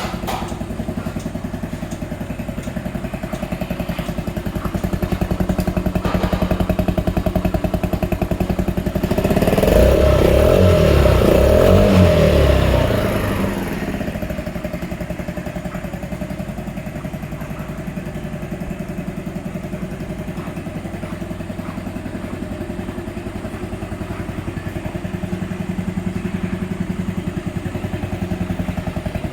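Yamaha Majesty 125 scooter's single-cylinder four-stroke engine idling, revved once about nine seconds in for around four seconds, then dropping back to a steady idle.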